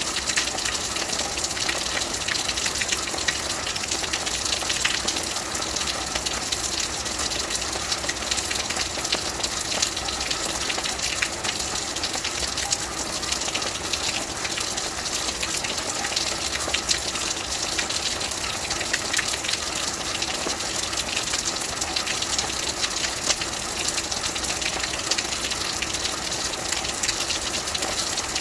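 Steady heavy rain: an even rush of water with many small drop impacts, unchanging throughout.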